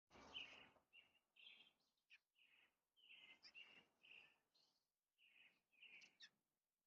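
American robin singing faintly: a string of about a dozen short whistled phrases with brief gaps between them.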